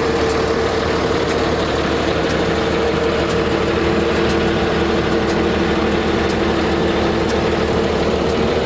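Cummins ISB inline-six diesel of a Freightliner M2 dump truck idling steadily, with a steady whine over the engine note and a faint tick about once a second.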